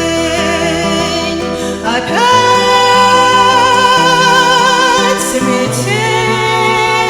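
Song performance: a singing voice holds long notes with vibrato, sliding up into a new held note about two seconds in and another near the end, over a steady chordal accompaniment.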